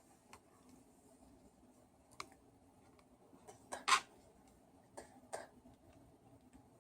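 Scattered light clicks and taps from handling the hammer drill's parts and cord during repair, about six in all, the loudest a little before four seconds in.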